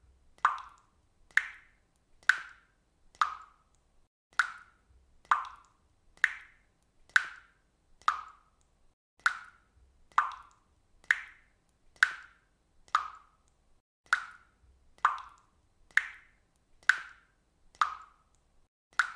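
Water dripping from a faucet: a steady series of single drops, about one a second, each landing with a short, sharp plop.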